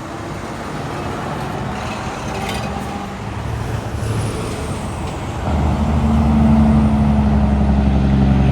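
Road traffic passing, then a heavy truck's engine coming up loud about two-thirds of the way in and running steadily as it nears.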